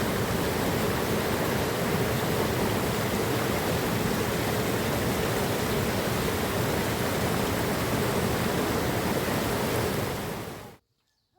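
Mountain river water rushing, a steady, loud hiss of rapids close by that fades out quickly near the end.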